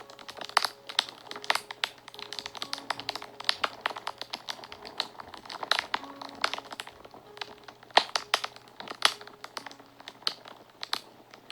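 Wood fire crackling and popping, with many sharp snaps several times a second. Soft held notes of background music sit faintly beneath.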